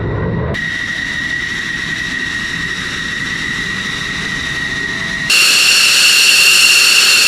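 F-16 fighter jet's engine running with a steady high whine. About five seconds in, the sound cuts abruptly to a louder, higher whine.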